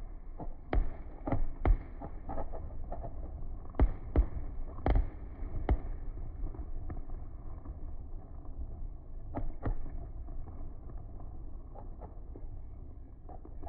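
Fireworks going off in an irregular series of sharp bangs, clustered in the first six seconds with two more about halfway through, over a steady low rumble.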